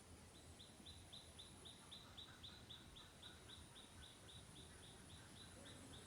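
A faint, steady series of short high chirps, repeated about four times a second, from a small animal calling.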